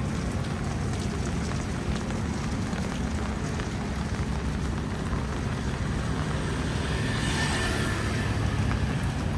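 Wet-street ambience in the rain: a steady low rumble of traffic under the hiss of rain. A louder hiss swells briefly about seven seconds in.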